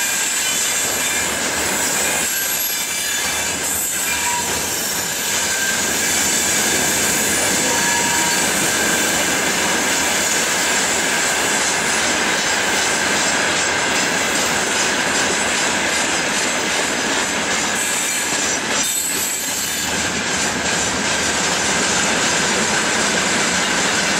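Freight train of open gondola wagons rolling past, a steady loud rush of steel wheels on rail with a continuous high-pitched wheel squeal and a faint clatter of wheels over the rail joints.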